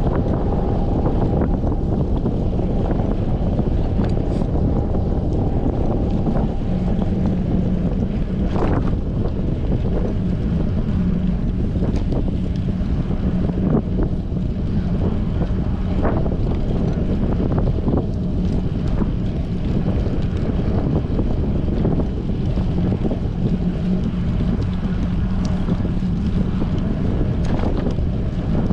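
Strong wind rushing over the microphone of a GoPro action camera on a moving bicycle, a steady low rumble. A faint low hum joins about a quarter of the way in, and there are a few sharp ticks.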